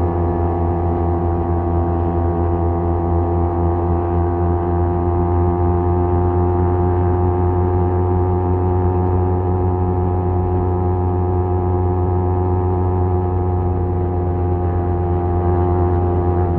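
Kawasaki Z250's parallel-twin engine breathing through an aftermarket SeaPro muffler, running at a steady cruising speed with an even, unchanging exhaust note.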